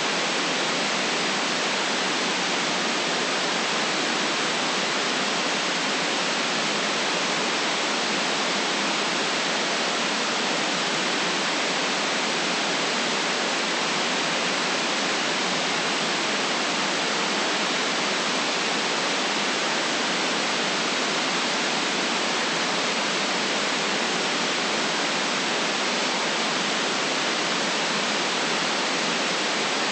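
Steady white noise for sleep: an even, unchanging hiss with almost no deep bass, holding the same level throughout.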